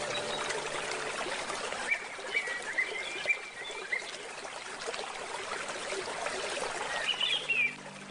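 A stream running steadily, with a bird chirping over it: a quick run of short chirps about two seconds in and another brief call near the end.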